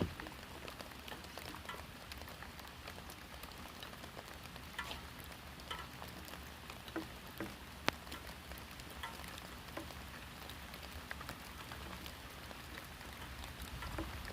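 Heavy rain pouring down, a steady hiss with scattered drops ticking sharply on nearby surfaces.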